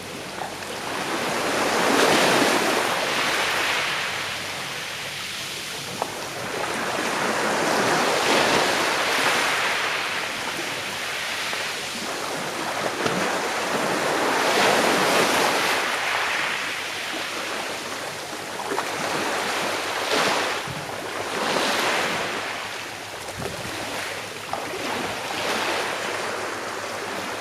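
Sea waves washing onto the shore, each surge swelling and fading in a slow, uneven rhythm, about five in all.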